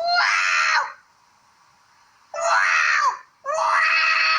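A cat meowing loudly three times, each meow long and steady in pitch and dropping off at the end.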